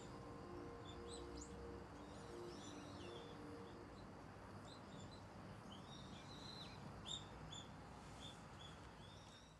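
Small birds chirping outdoors: many short, high chirps scattered throughout over a faint background hiss. A few soft held music notes die away in the first few seconds.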